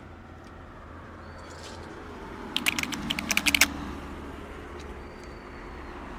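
A quick run of about a dozen sharp clicks over about a second, starting about two and a half seconds in, over a faint steady low hum.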